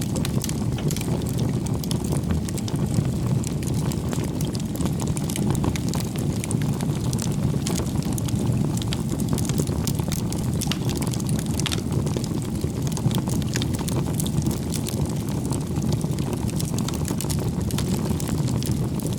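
Bonfire burning: a steady low rush of flames with frequent sharp crackles and pops of burning wood.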